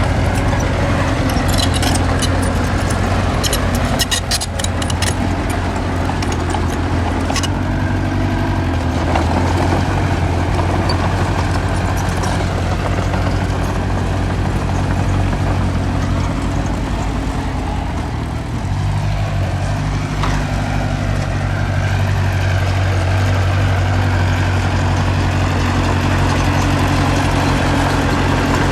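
Small bulldozer's diesel engine running steadily, with a run of sharp rattling clicks in the first several seconds. The engine note changes about two-thirds of the way through.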